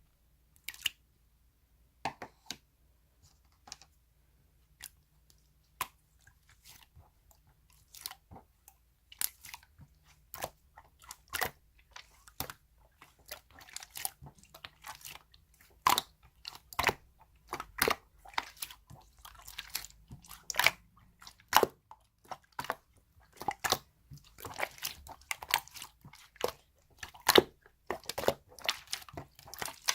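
Slime being kneaded and pressed by hand, giving sharp sticky clicks and pops as air pockets burst. The clicks are sparse at first and come thick and fast from about ten seconds in.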